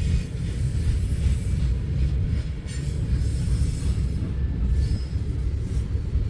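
Freight train of coal cars rolling past close by, a steady low rumble of steel wheels on the rails.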